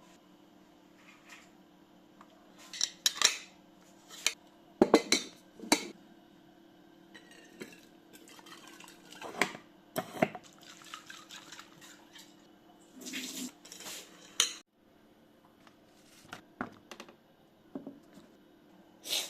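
Dishes and cutlery clinking and knocking now and then as kitchen things are handled, over a steady low hum.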